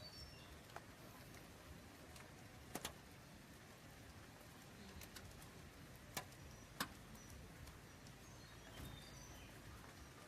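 Faint chirps of pet budgerigars, scattered short high notes, with a few sharp clicks, two of them close together about three seconds in.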